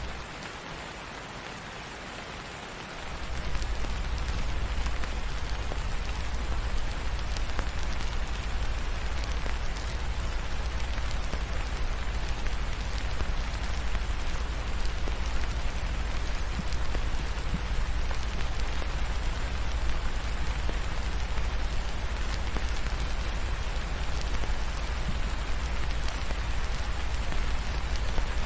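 Steady rain falling, an even hiss of drops. There is a low rumble under it that is missing for the first three seconds or so, then comes in and holds.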